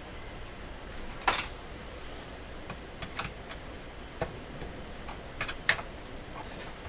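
Scattered sharp clicks and ticks as the case of a vintage Sharp transistor radio is pried apart. One loud click comes about a second in, fainter ones follow, and the loudest comes near the end.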